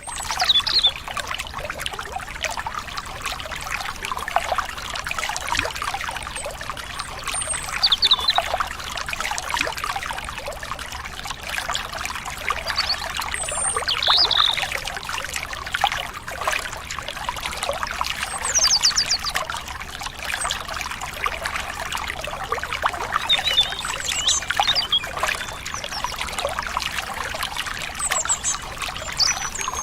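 Stream water trickling and splashing steadily, with short high bird chirps every few seconds.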